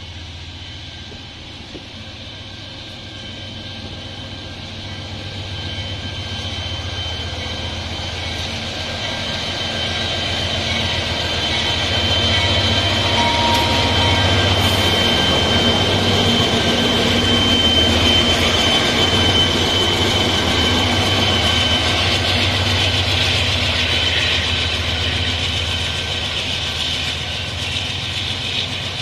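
Freight train of diesel locomotives and hopper wagons passing: the locomotives' engine rumble and a steady high-pitched whine grow louder as they approach, peak about halfway through, and ease as the wagons roll by.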